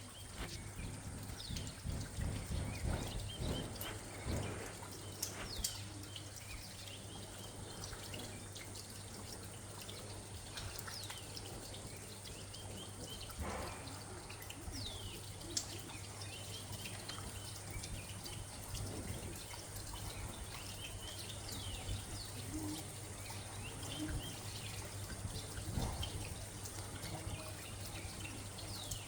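Rain falling, with water dripping and trickling steadily.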